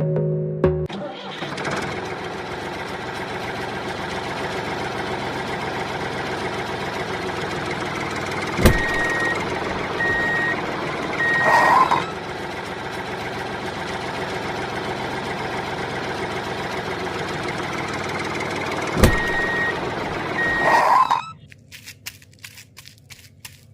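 A vehicle engine running steadily. Twice it is broken by a sharp knock, three short beeps like a reversing alarm, and a short burst of sound. The running cuts off suddenly near the end.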